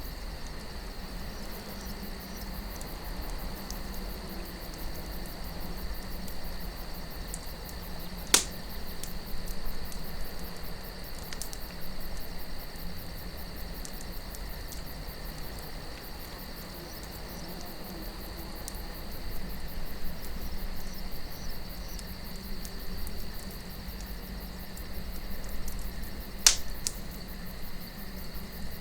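Campfire crackling with small snaps throughout and two sharp, loud pops, about eight seconds in and near the end. Under it run a soft low wind and a steady high chirring of night insects.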